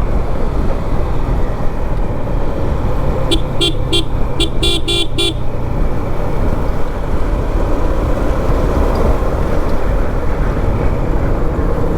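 Steady engine and wind rumble of a motorcycle on the move. About three seconds in, a vehicle horn gives a quick string of short beeps, roughly seven in two seconds.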